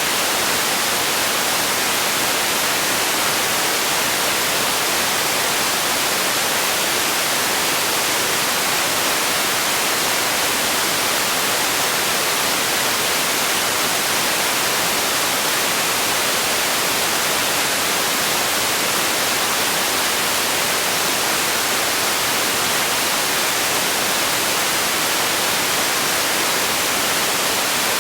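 Steady hiss of generated noise, brightest in the high frequencies, holding an even level without any change.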